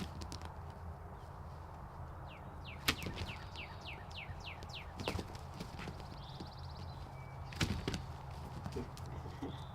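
Birds calling in quick series of short chirps that slide downward in pitch, with a brief trill partway through. A few sharp knocks stand out, the loudest about three and eight seconds in, over a steady low rumble.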